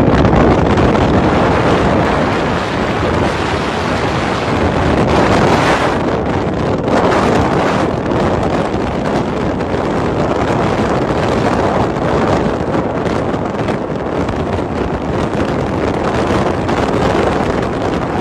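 Wind blowing against the microphone in a snowstorm: a loud, steady rushing noise that swells and eases a little in gusts.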